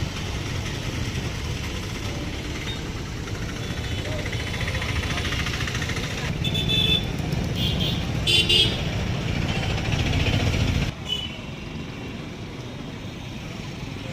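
Road vehicle running with a steady rumble, with a few short horn toots around the middle; about eleven seconds in the sound cuts to a quieter rumble.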